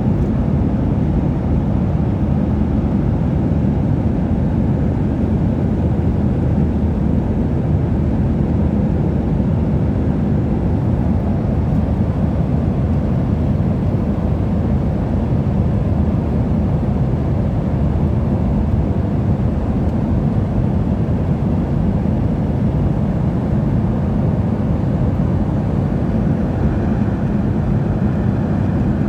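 Airplane cabin noise: a steady, even low rumble of engines and rushing air heard from inside a passenger aircraft, unchanging throughout.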